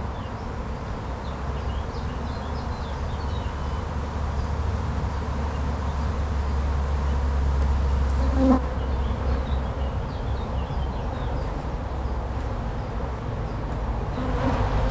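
Honey bees buzzing steadily in a mass around an open hive, with a single knock about eight and a half seconds in.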